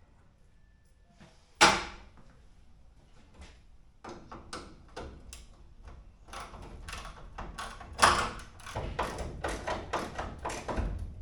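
Hand tools working on car parts: one loud metallic knock, then a run of clattering knocks and clicks, several a second, with a second heavy knock partway through.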